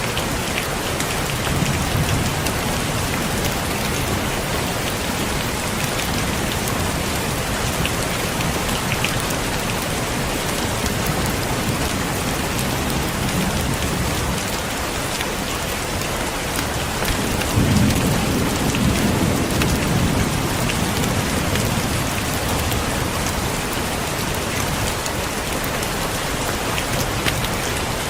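Heavy rain falling steadily, with low rumbles of thunder, the loudest starting a little past the middle and lasting a few seconds.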